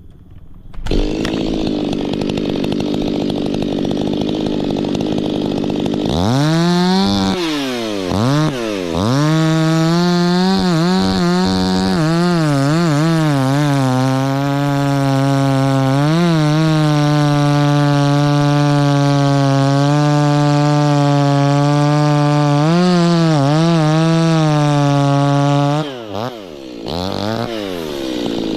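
Two-stroke chainsaw: it comes in about a second in and idles, then revs up to full throttle at about 6 s. It holds a high, steady whine with small dips in pitch, as under load while cutting wood. Near the end it drops back to idle, then revs up again.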